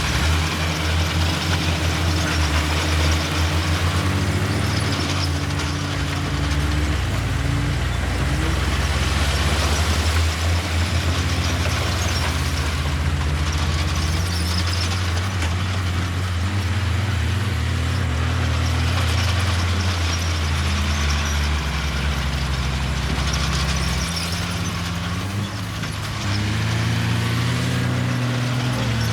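Heavy diesel engines of earthmoving machinery running, their pitch rising and falling several times as the throttle is worked under load.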